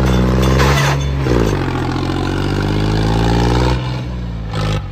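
Swaraj tractor's diesel engine revving hard. Its pitch dips about a second in, climbs again, and eases off near the end, with a short hiss just before it stops.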